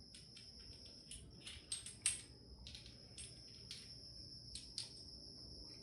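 Irregular light clicks and taps of a hand tool on metal as it is fumbled onto a fastener, two of them a little louder about two seconds in.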